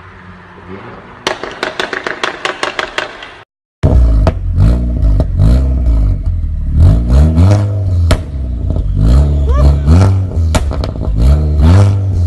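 Car exhaust giving a quick run of pops and crackles. After a short cut, the engine is revved hard again and again, its pitch rising and falling with each blip, with sharp cracks from the exhaust between the revs.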